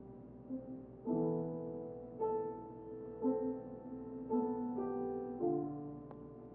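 Soft background keyboard music in piano tone: sustained chords struck about once a second, each held and slowly fading.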